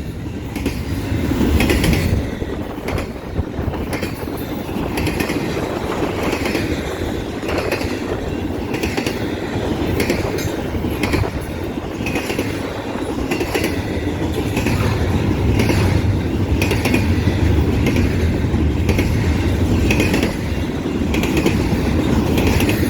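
Intermodal freight train cars rolling past with a steady rumble, the wheels clicking about once a second over a damaged section of track that dips down and up.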